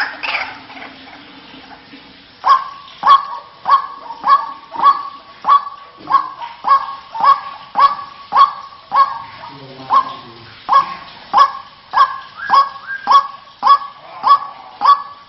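White-breasted waterhen calling: a loud honking call repeated in a steady rhythm about twice a second, starting a couple of seconds in.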